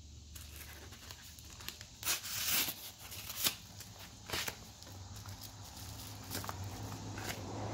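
A small mail package being torn open by hand: several short tearing and crinkling noises of the packaging, the longest about two seconds in.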